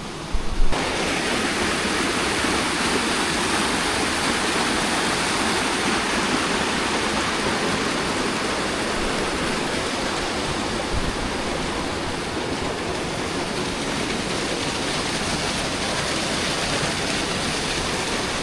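Steady rushing water of a waterfall, an even noise that starts suddenly about a second in and holds level, with a brief knock at its start and another faint one partway through.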